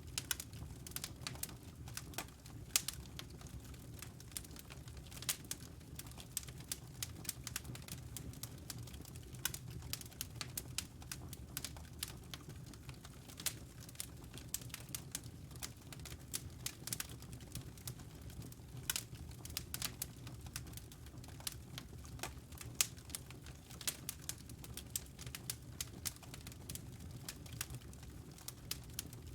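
Wood fire in a fireplace crackling and popping: a steady low rumble under many irregular sharp snaps.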